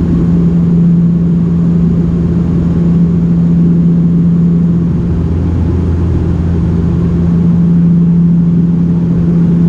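Cabin drone of a Dash 8-400 (Q400) turboprop in flight: its engines and six-bladed propellers make a loud, steady hum, with a constant low tone over a deeper rumble.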